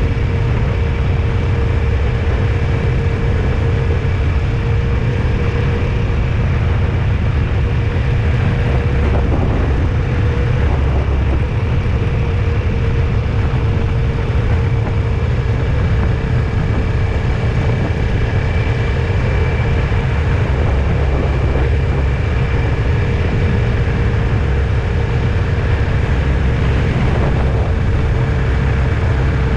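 A car being driven at a steady pace: a continuous low rumble of road and engine noise with a faint steady whine.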